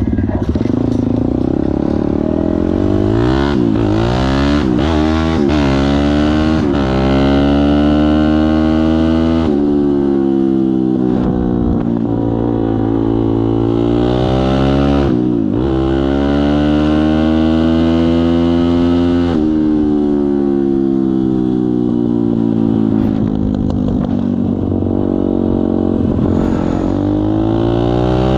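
Kayo pit bike engine revving under riding, its note climbing and falling again and again, with sudden drops in revs several times.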